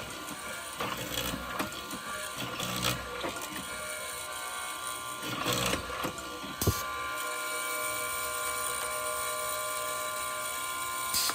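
Workshop handling noises, irregular knocks and scrapes, then a sharp click and a small power tool motor running steadily with a fixed whine.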